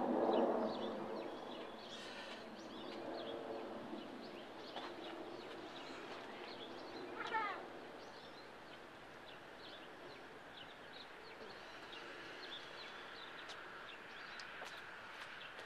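Small birds chirping in the background, with one louder call stepping down in pitch about seven seconds in.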